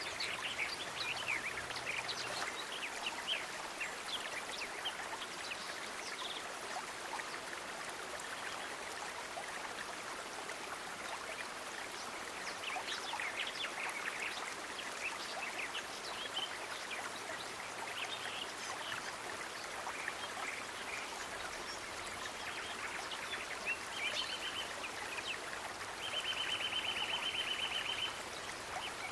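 Running water, like a stream, with many short high bird chirps over it and a fast, even trill lasting about two seconds near the end.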